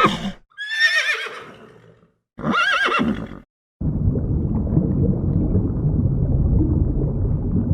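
Two animal calls with a wavering, falling pitch, the second shorter, then from about four seconds in a steady low rumbling noise takes over.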